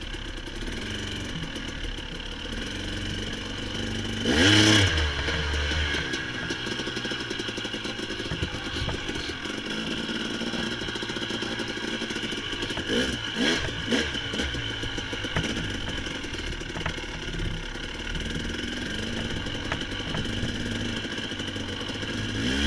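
Dirt bike engine running along a trail, with the throttle opened into a loud rising rev about four and a half seconds in, a couple of shorter revs midway, and another rise near the end.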